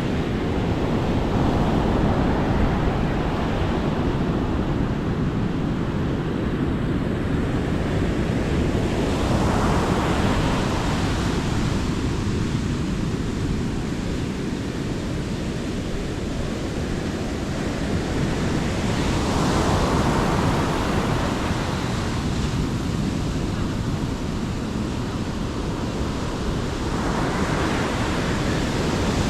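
Sea waves breaking on a beach, the surf swelling and receding every several seconds, with wind rumbling on the microphone.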